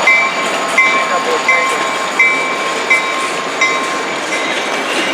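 Train rolling past, its wheels clicking over rail joints about every 0.7 seconds, with a thin high-pitched squeal of wheels on rail running underneath.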